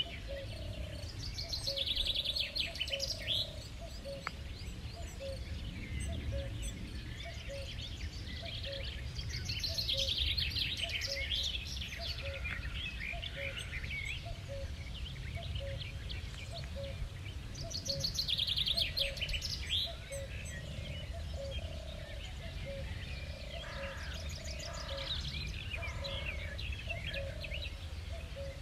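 Songbirds singing outdoors, with loud song phrases every few seconds, while a soft, low note repeats evenly about once a second throughout.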